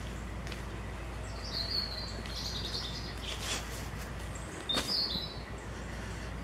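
Small birds chirping in short bursts, a cluster about one and a half seconds in and another just before five seconds, over a steady low rumble.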